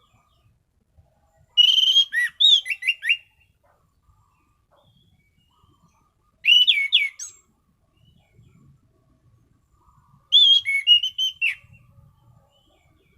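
Anis cendana (orange-banded thrush) singing: three short phrases of quick, clear whistled notes, one at about two seconds, one at about seven seconds and one at about eleven seconds, with pauses between them.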